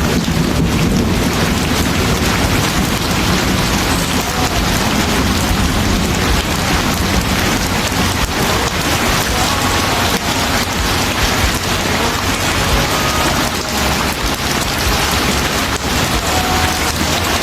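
Steady heavy rain, with a low rumble in the first couple of seconds. A few faint held musical notes come through the rain in the second half.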